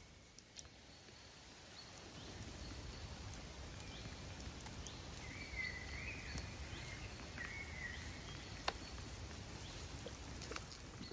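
Quiet natural outdoor ambience with a low rumbling background and a bird's short warbling calls about halfway through, with scattered faint ticks.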